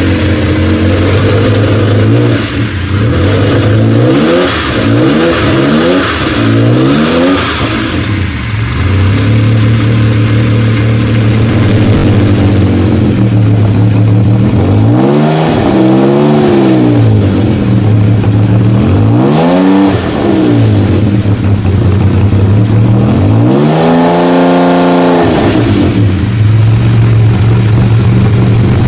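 Jaguar XJ220's twin-turbo V6 idling, blipped several times in quick succession a few seconds in, then revved three more times with longer, higher sweeps, the last the longest and highest, each settling back to idle.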